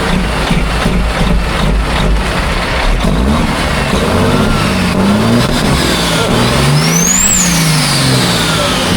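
Heavy diesel engine revving up and down several times, then climbing to a high peak about seven seconds in before dropping back. A high whistle rises and falls along with the revs.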